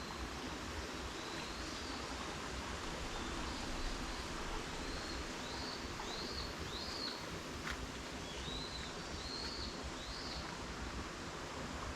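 A small bird calling in a series of short, arched chirps over a steady background hiss, with a single click a little past the middle.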